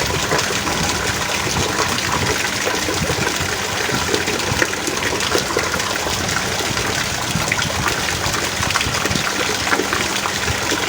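Heavy rain falling steadily, a dense patter of countless drops with water running.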